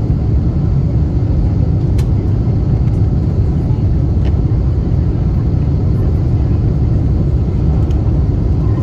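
Steady low rumble of a Boeing 747-8 airliner, its four GEnx engines and airframe heard from inside the cabin, with two faint ticks about two and four seconds in.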